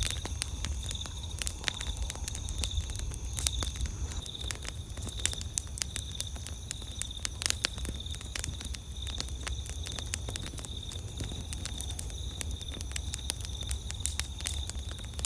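Wood campfire crackling with many sharp pops, some louder than others. Behind it, night insects keep up a steady high chirping trill.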